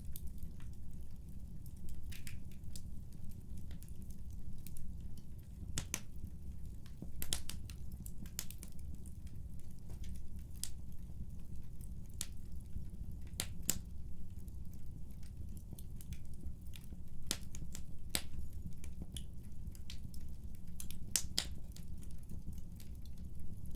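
Wood fire crackling in a fireplace: a steady low rumble of burning with irregular sharp pops and snaps, a few of them louder than the rest.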